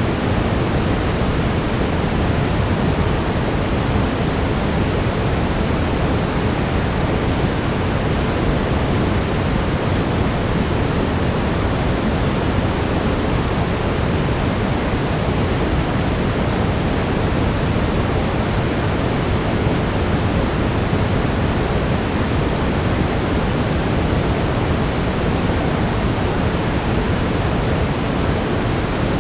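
Steady brown noise: a deep, even hiss with most of its weight in the low end.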